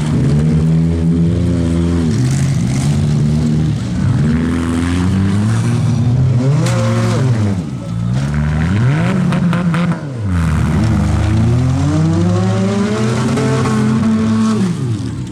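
Compact demolition-derby cars' engines revving hard, their pitch rising and falling again and again as the cars accelerate, back up and ram each other.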